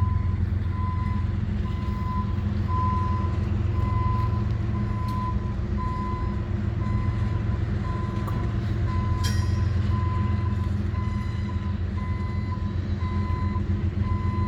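Slow-moving train's diesel engine rumbling steadily, with a high electronic beep repeating a little under twice a second throughout. A brief high squeak about nine seconds in.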